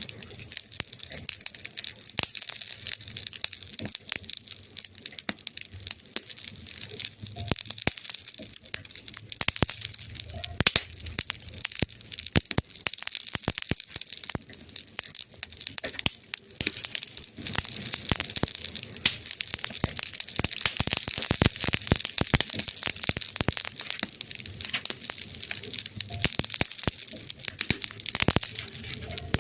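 Burning wood crackling: a dense, irregular run of sharp pops and snaps over a steady hiss.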